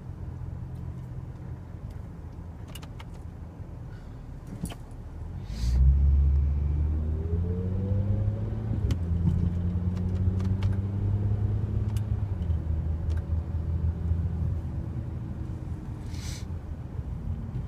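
Car engine heard from inside the cabin, running low and steady, then accelerating about five seconds in with its pitch rising, then settling into a steady cruise. A few short clicks are heard along the way.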